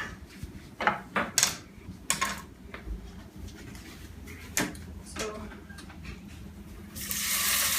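Scattered knocks and clatter of kitchen things being handled. About seven seconds in, a steady frying sizzle starts as diced raw chicken goes into a hot pan.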